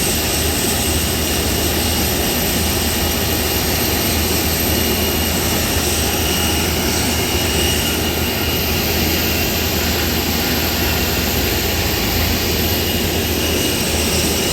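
Jet airliner's engines running, a steady, unbroken drone of engine and rushing-air noise with a constant low hum.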